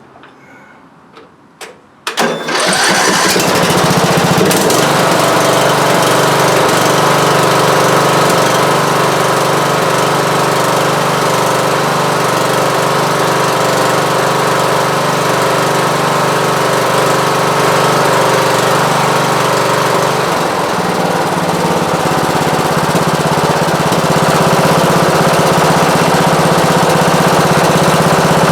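Rebuilt riding-mower engine cranked on its electric starter, catching about two seconds in and then running steadily at a loud, even note that shifts about twenty seconds in. The exhaust leaks.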